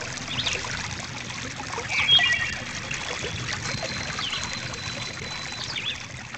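Water trickling in a stream, with birds chirping several times above it.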